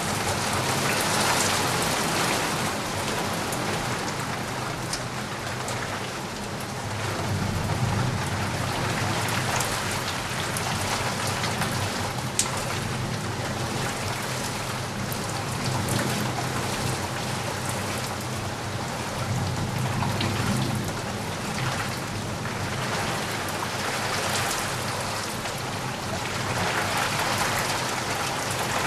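Steady rain falling on a surface, with scattered sharp drop ticks. Slow low rumbles swell up twice, about a third and two thirds of the way through.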